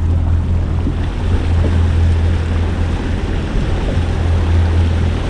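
Steady low hum of a small boat's motor, with wind and water noise around it.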